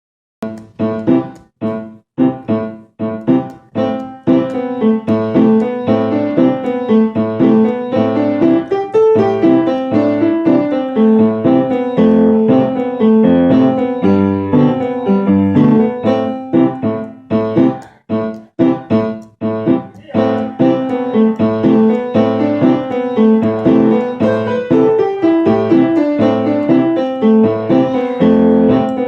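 Solo piano music, an original instrumental piece. It opens with separate struck notes and chords that ring out and fade between strikes, then settles into steady, continuous playing. It briefly returns to separate chords around eighteen seconds in.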